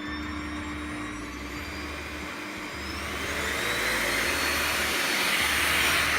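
Midea VSB 40 A 14D-B bagged canister vacuum cleaner running with a steady rushing noise. About halfway through its motor whine rises in pitch and it gets louder, holding at the higher level.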